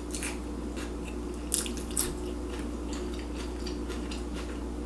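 Close-up chewing of a torta de milanesa sandwich: wet mouth clicks and smacks, two of them louder about a second and a half and two seconds in.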